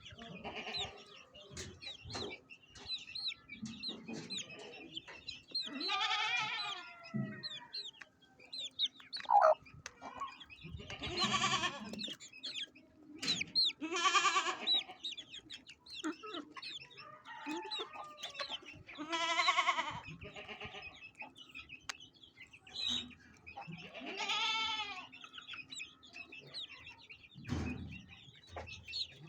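Chickens clucking and chirping, with about five louder drawn-out calls, each about a second long, spread through the stretch.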